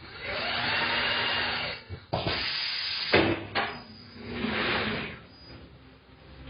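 Tyre-changer work on a low-profile tyre: four bursts of rubbing and hissing, each up to about a second and a half long, with a sharp knock about three seconds in.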